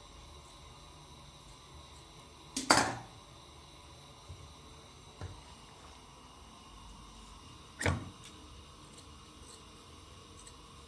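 Two sharp knocks about five seconds apart, the first the loudest, with a couple of faint taps between them over a low background.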